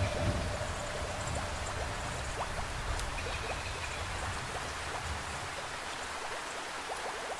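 Steady heavy rain with scattered drips, and a low thunder rumble that dies away over the first few seconds. A single held instrument note fades out alongside it.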